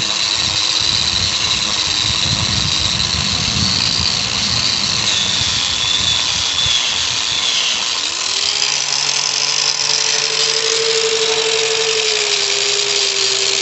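Electric grinder with a wire wheel running continuously on the metal of a brake backing plate, cleaning it down for welding. A high whine wavers throughout, and the motor's pitch drops about eight seconds in, then climbs and holds.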